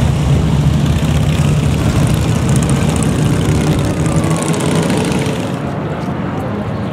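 Many motorcycle engines rumbling together as a column of bikes rides past, a loud steady drone that eases off a little about five and a half seconds in.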